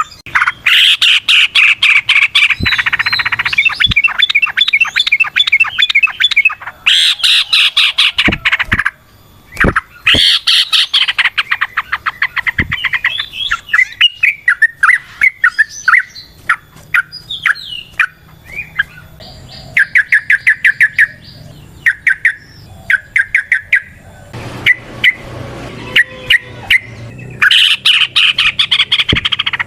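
Yellow-vented bulbul (trucukan) singing its long chattering 'ropel' song: loud bouts of rapid, bubbly repeated notes, one after another with short pauses between them.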